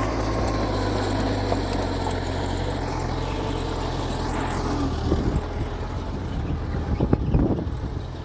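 Mitsubishi bulldozer's diesel engine running steadily, with a few sharp knocks in the second half.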